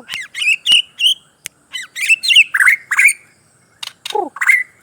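White-crowned shama singing: a fast, varied run of whistled notes, chirps and quick sweeps, with a short pause a little past the middle and a note sliding steeply down about four seconds in.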